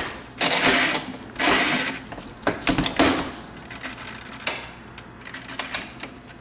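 Mechanical rattling and clicking from a GE dishwasher being handled: two longer rattles in the first two seconds, then a scattering of sharp clicks.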